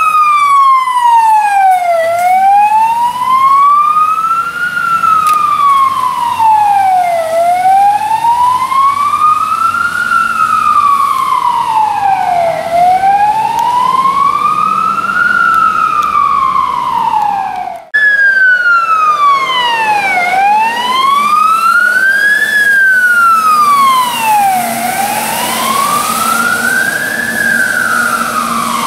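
Fire engine's electronic siren on a slow wail, rising and falling about once every five seconds. It breaks off abruptly about eighteen seconds in and starts again straight away, a little higher and slightly faster.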